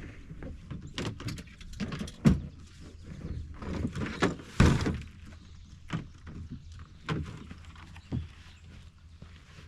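Gear being unloaded from a vehicle: a run of irregular knocks, clunks and thuds, with two heavier thumps about two and four and a half seconds in.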